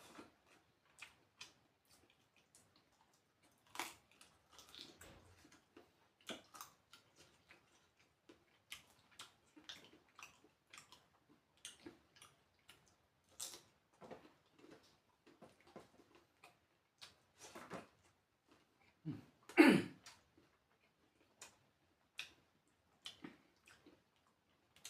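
Close-up eating sounds: irregular wet chewing and mouth smacks, many short clicks a second or so apart, with one louder, longer sound about twenty seconds in.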